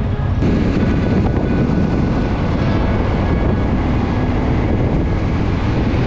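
Motorcycle running at road speed with heavy wind rushing over the microphone, a steady dense rush that jumps in level about half a second in.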